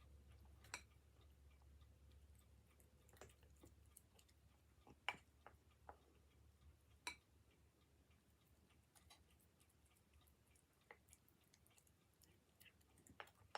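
Faint, scattered clicks and smacks of a cat chewing and licking wet food, about one every second or two, over a low hum that fades after the first few seconds.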